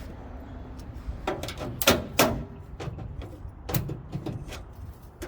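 Knocks and clatter of a washing machine's plastic and metal parts being handled during disassembly: a few sharp knocks in the first half, then more near the end.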